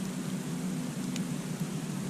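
Campfire burning with a steady low rush and a single faint crackle about a second in.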